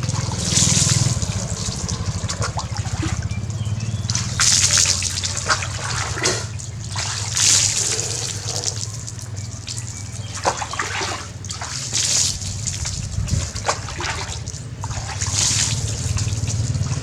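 Bath water pouring and splashing in about four louder bursts, with smaller trickles and splashes between, over a low steady hum.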